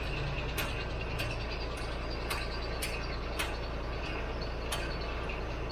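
A steady low mechanical hum with a sharp click about every half second, holding level throughout.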